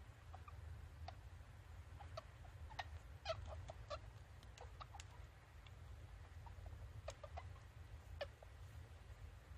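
Two-day-old newborn rabbit kits giving faint, short high-pitched squeaks, several in quick succession about three to five seconds in and again around seven to eight seconds, over a low steady hum.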